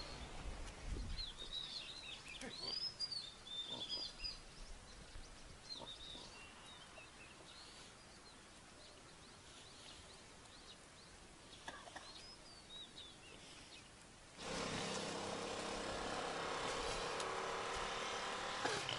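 Birds chirping in short rising and falling calls over faint outdoor background, mostly in the first few seconds. About three-quarters of the way through, a louder steady noise with a low hum cuts in suddenly and stays.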